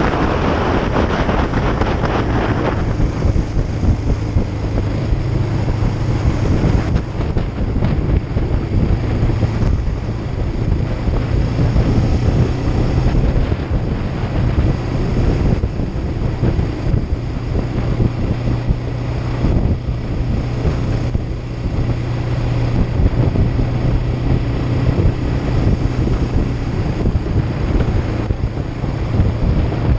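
Kawasaki Ninja 500's parallel-twin engine running at a steady pace while riding, under heavy wind buffeting on the action camera's microphone.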